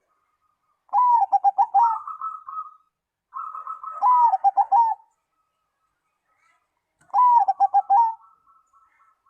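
Zebra dove (perkutut) singing: three phrases of quick, rolling coos, each one to two seconds long, with short pauses between.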